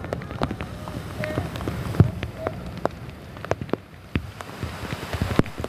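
Heavy rain, with raindrops striking a nearby surface in irregular sharp taps, the loudest about two seconds in.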